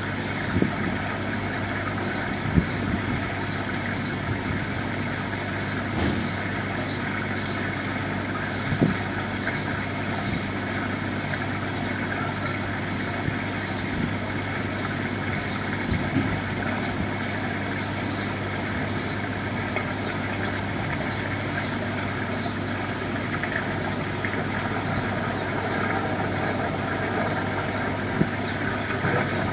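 An engine or motor running steadily at idle with a low hum. A faint high ticking repeats about twice a second, and a few short knocks come through.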